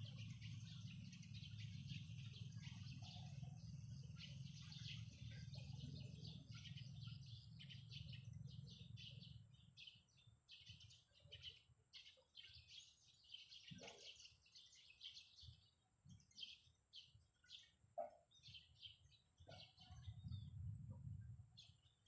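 Small birds chirping, faint: a busy run of quick high chirps that thins to scattered calls about halfway through. A low steady rumble sits under the first half and comes back near the end.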